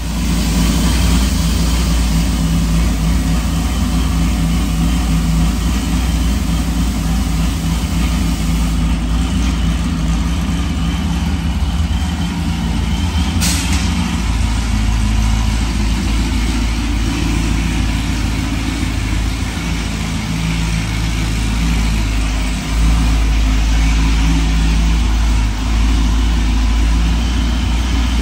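Procharged Pontiac G8 GT's 6.0-litre V8 running steadily at idle with a deep exhaust rumble and no revving. There is a short click about halfway through, and the rumble gets a little louder near the end.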